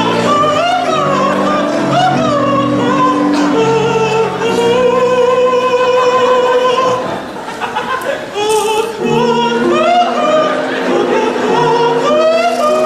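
A lullaby sung in a stage musical: a high voice holds long notes with vibrato over musical accompaniment, with a short softer passage about seven seconds in.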